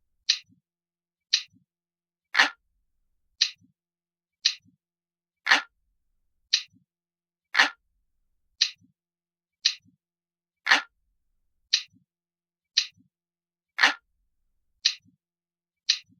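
Ticking clock sound: sharp, evenly spaced ticks about once a second, some fuller and deeper than the rest, each with a faint low knock just after it.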